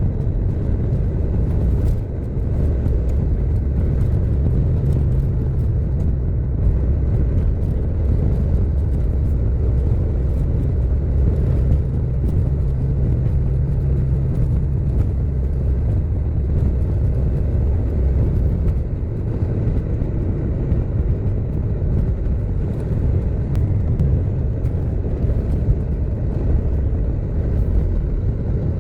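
A car driving: a steady low rumble of engine and road noise that eases slightly about two-thirds of the way through.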